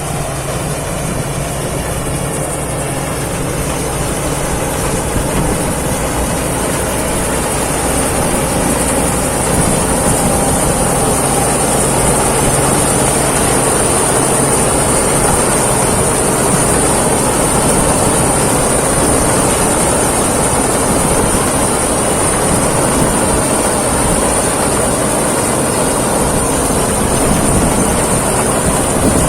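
Thai Seng rice combine harvester running as it harvests, its engine and threshing gear making a continuous dense mechanical noise with a steady high whine over it. It grows louder over the first ten seconds or so, then holds steady.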